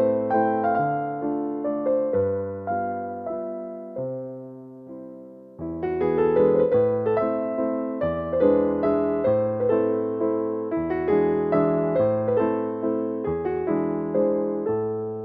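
Background piano music: a slow, gentle melody of notes that ring and die away, thinning out briefly about four seconds in and again near the end.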